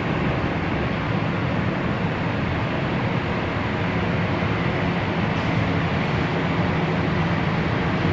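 Jet aircraft engines running, a steady even noise with a faint low hum.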